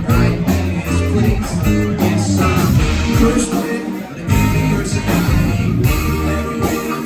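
Live rock band playing: electric guitar over bass and drums with a steady beat, the bass and drums dropping out briefly about four seconds in.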